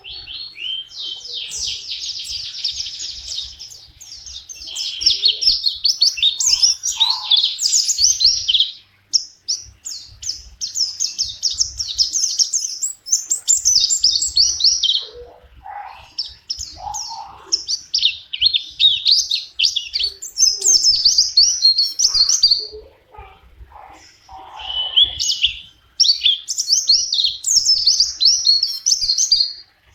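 Pleci (white-eye) singing a long, rapid, high-pitched twittering song in run-on phrases, broken by a few short pauses.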